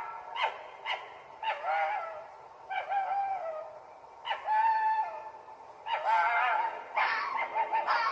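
A run of short, high-pitched animal calls, about one a second, each lasting around half a second.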